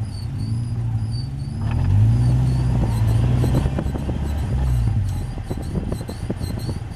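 Caterham race car's engine heard from the cockpit at low revs, picking up about two seconds in and easing off around five seconds, followed by light rattles and clicks.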